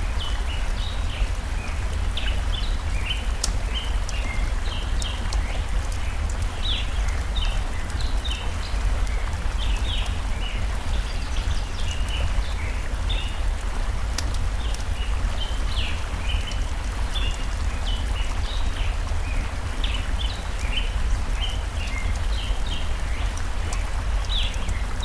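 Layered forest ambience: a stream's steady rushing water under birds chirping in many short, rapid notes, with a campfire's scattered crackles.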